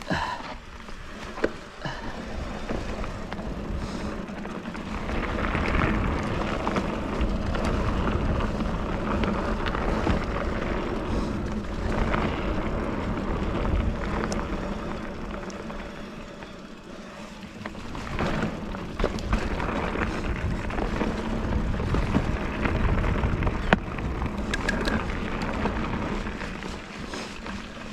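Giant Fathom hardtail mountain bike rolling along a dirt singletrack: tyre noise, rattling and clicks from the bike, and wind rumbling on the microphone. It eases off briefly midway, then picks up again.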